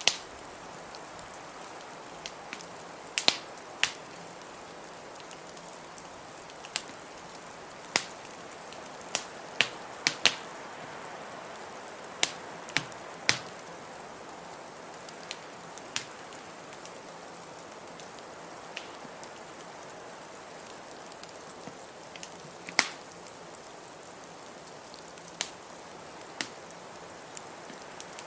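Wood fire in a fireplace crackling: sharp, irregular pops every second or two over a steady background hiss.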